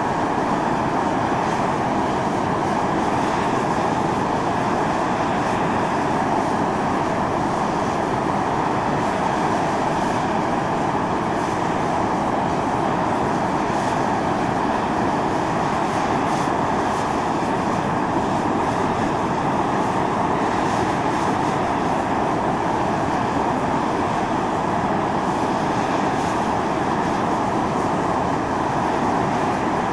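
Volcanic fumarole on Mt. Io (Atosanupuri) venting steam in a steady, continuous rushing hiss with no breaks or changes.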